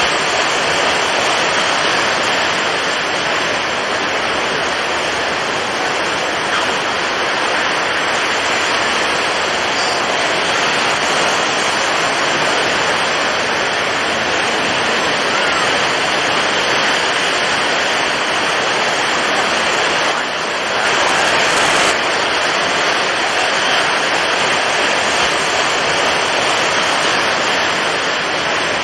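Storm at sea: a steady, loud rush of strong wind and heavy surf with no distinct breaks, briefly dipping and then swelling with a sharper hiss about twenty seconds in.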